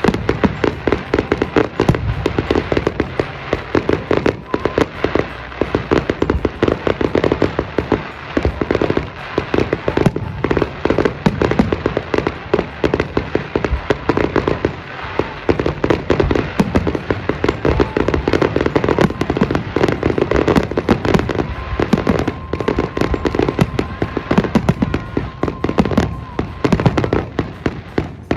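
Firework display going off in a dense, continuous barrage, many sharp bangs and crackles a second.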